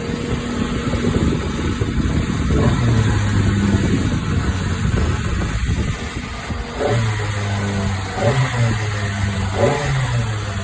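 Kawasaki ZX-25R motorcycle's 250 cc inline-four engine running, rougher in the first half, then steadier with two brief throttle blips near the end.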